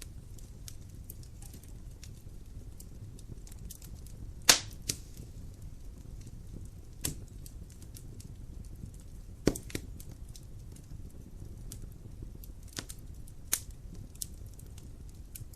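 Wood fire in a fireplace crackling: a low steady rumble of the flames under scattered sharp pops and snaps, the loudest about four and a half and nine and a half seconds in.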